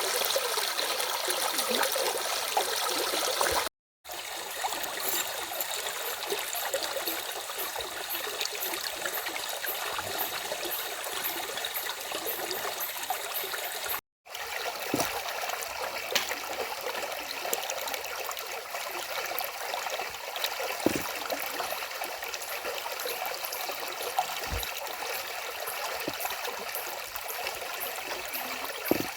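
A stream running steadily: a continuous rush and trickle of water, cut by two brief silences where the recording breaks.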